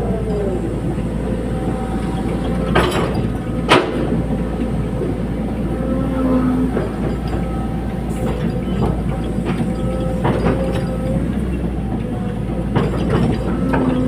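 Tracked excavator running steadily, with metallic clanks and short squeals that come and go, like the undercarriage working. Two sharp knocks come about three and four seconds in.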